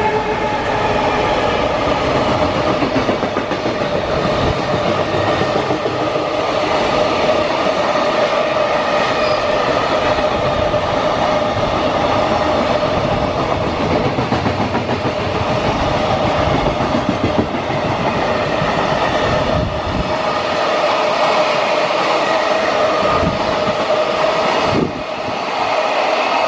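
A long freight train passes close by: its wagons roll over the rails with a clickety-clack and a steady ringing tone running through the noise.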